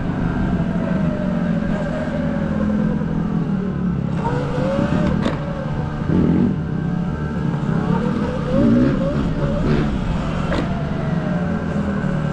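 Dirt bike engine running under way, its pitch rising and falling as the throttle is worked through the gears.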